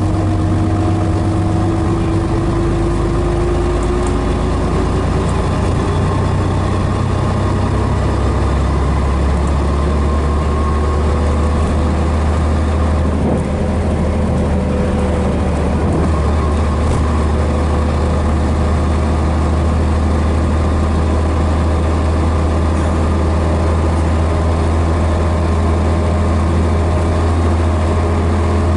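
The Scania DS11 diesel engine of a Scania BR111DH Metropolitan double-decker bus running steadily with a deep hum, under a faint whine that rises slightly in pitch over the first few seconds.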